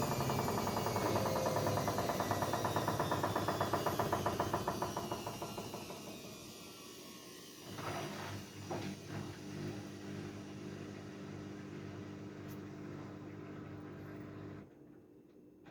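Haier 7.5 kg washing machine winding down: motor whine and a fast, even pulsing that fade and fall in pitch over the first several seconds, then a quieter steady hum with a few clicks about eight seconds in.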